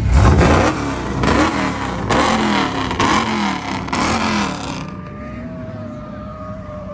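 Vehicle engine revved hard in about five quick surges, roughly a second apart, then dropping back to a quieter steady running sound near the end.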